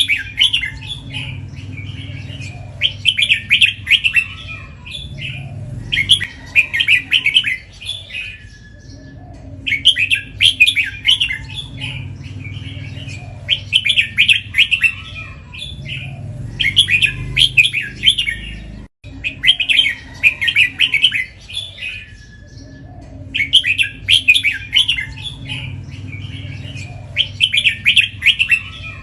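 Red-whiskered bulbul singing loud, bright warbled phrases, repeating them in quick runs of two or three. The runs come every few seconds with short gaps between. This is the 'doubling' repeated-phrase song prized in competition bulbuls.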